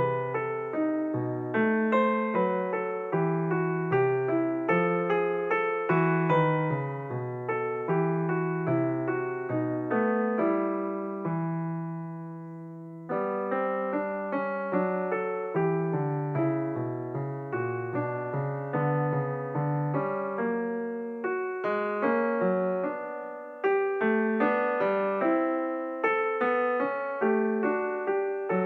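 Solo piano music played in a flowing, even rhythm of notes. It pauses on a held chord that fades out about halfway through, then resumes.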